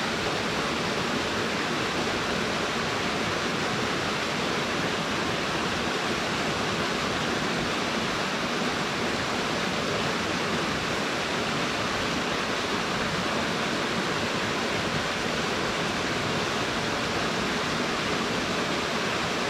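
A waterfall with a deep plunge pool, its water falling and churning into the pool as a steady, even rush that does not change.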